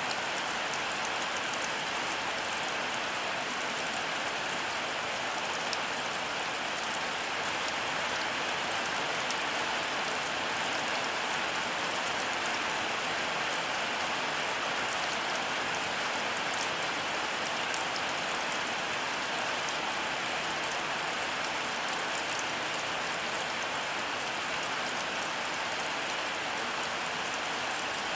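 Heavy rain falling steadily, a dense even hiss with scattered drops ticking through it.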